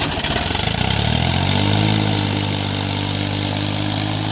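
New Holland 3037 tractor's diesel engine chugging, then revving up over about a second and holding steady at higher revs as the tractor works to climb out of dry sand.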